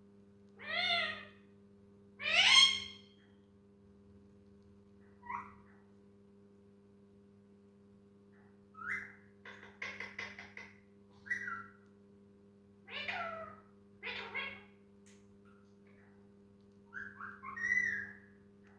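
Pet parrot calling in short separate bouts: two long meow-like calls in the first three seconds, then shorter whistles and chirps, over a steady electrical hum.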